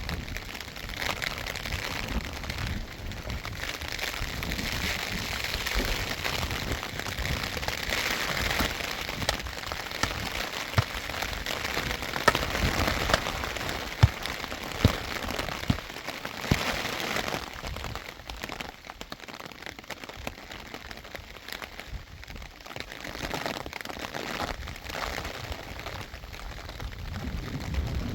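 Steady rain falling, with a few sharp taps of drops or knocks about halfway through.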